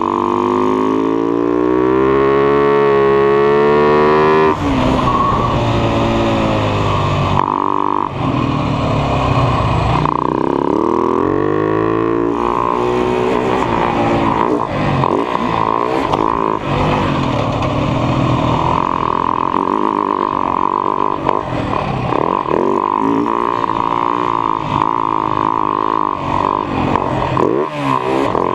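Husaberg FS 570 supermoto's single-cylinder four-stroke engine under race throttle. It rises in pitch for about four seconds until a sudden drop at a gear change, then revs up and down repeatedly.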